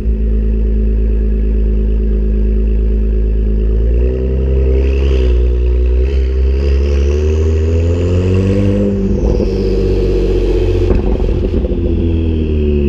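Acura NSX twin-turbo V6 with an aftermarket valved exhaust, catted downpipes and titanium charge pipes: idling, then revved up for several seconds with a high whine that rises with the revs. It drops back to idle with some crackling on the way down.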